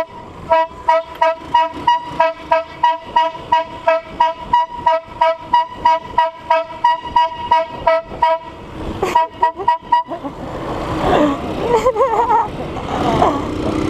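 A car's two-tone horn (cornetas) honked in rapid short blasts, about three to four a second, for some eight seconds. After a short pause comes a brief second run of blasts.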